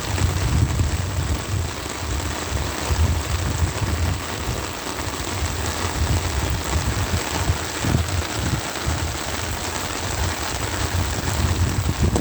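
Heavy downpour of rain pattering steadily on an umbrella, with a low rumble underneath.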